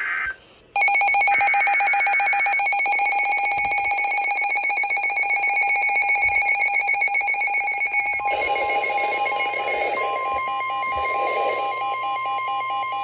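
Emergency Alert System alert for a severe thunderstorm warning. The tail of a digital header screech ends at the start, and after a brief pause the attention signal begins just under a second in: a loud, steady electronic alarm tone. About eight seconds in, a second steady, slightly higher alert tone joins it.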